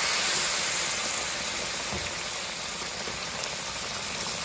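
Pork and potato curry sizzling steadily in hot oil in a kadai, the hiss easing slightly; near the end hot water from a kettle starts pouring into the pan.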